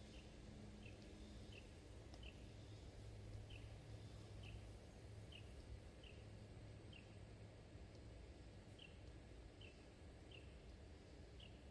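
Faint, short, high bird chirps repeating about once a second, with a pause about two-thirds of the way through, over a quiet outdoor background.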